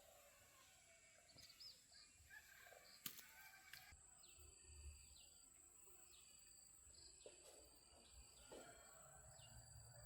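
Faint outdoor ambience with a small bird chirping repeatedly at a regular pace, over a steady faint high hiss. A single sharp click about three seconds in.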